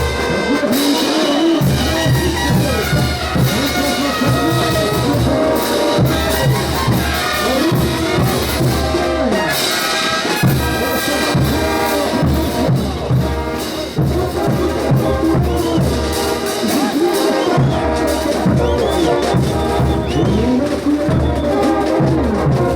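Andean brass band playing ch'uta dance music: trumpets and trombones carrying the melody in full chords over tubas and a steady bass-drum beat.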